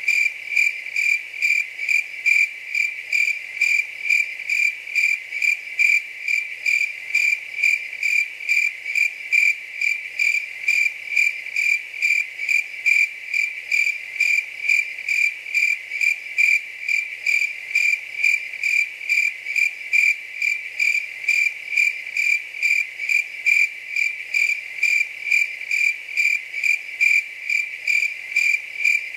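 Cricket chirping steadily: a high, even chirp repeated about two to three times a second, without a break.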